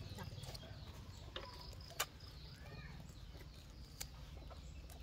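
Faint background of birds chirping, with a few sharp clicks, the loudest about two seconds in.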